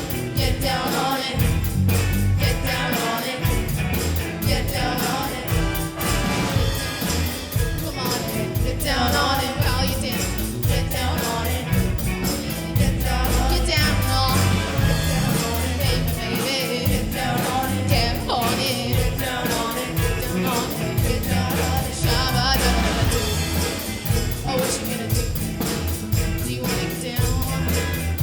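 Live band playing an upbeat funk-pop dance song with a steady, even beat.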